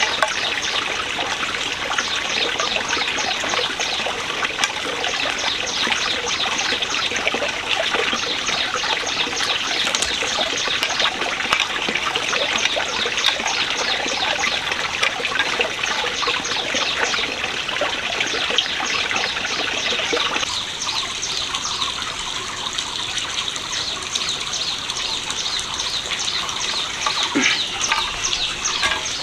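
Water trickling and running steadily, with a fast, even high ticking over it. About two-thirds of the way in, the fuller, lower part of the sound suddenly drops away.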